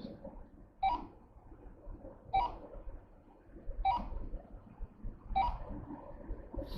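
Electronic two-tone chime repeating about every one and a half seconds, five times, over a faint low hum: typical of a car's warning chime sounding in the cabin.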